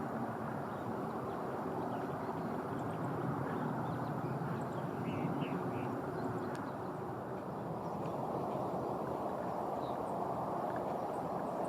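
Steady outdoor background noise with a few faint, short bird calls, a small cluster of them about five seconds in.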